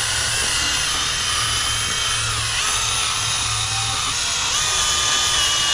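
Electric drill running steadily with a high whine, its pitch sagging briefly twice as the tool is pressed against the work while taking off a motorcycle tank badge.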